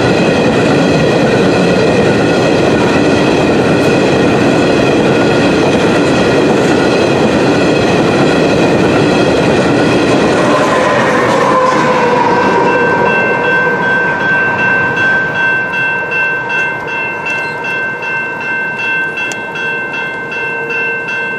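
Loaded potash hopper cars rolling past with wheel clatter. About ten seconds in, the rear CP AC4400CW distributed-power locomotive goes by, and its sound drops in pitch as it passes. As the train moves away, a grade-crossing bell rings on in a steady rhythm.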